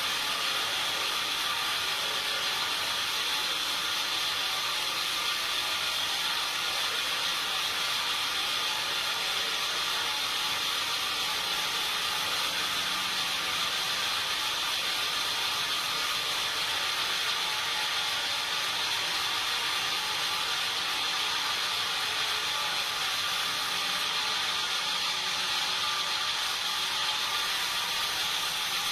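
Sawmill machinery running steadily, an even mechanical noise with a strong hiss that does not change.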